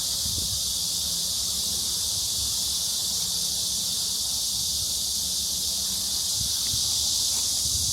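Steady, dense high-pitched insect chorus filling the summer air without a break, with a faint low hum underneath.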